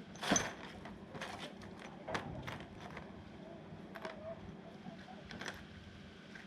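Metal tools and small-engine parts clinking and knocking as they are handled. There are about half a dozen sharp clicks, and the loudest comes about a third of a second in.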